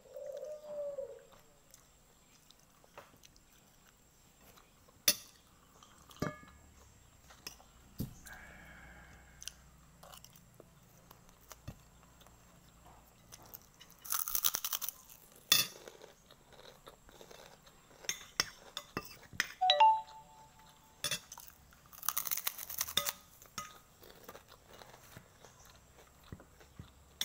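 A person eating close to the microphone: chewing, with scattered small clicks and two louder crunchy bites, about 14 and 22 seconds in.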